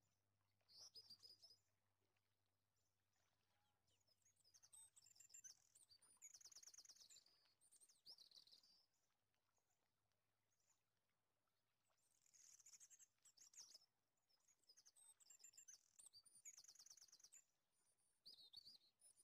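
Faint birdsong: bursts of high chirps and quick trills every few seconds.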